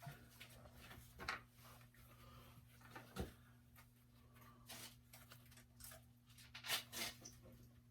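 Faint, scattered clicks and scrapes of a hand tool being worked on a small screw, over a steady low hum.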